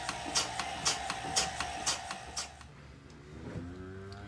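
Portable milking machine running on a dairy cow, a steady hum with the pulsator clicking about twice a second, shutting off about two-thirds of the way through. Near the end a cow starts a rising moo.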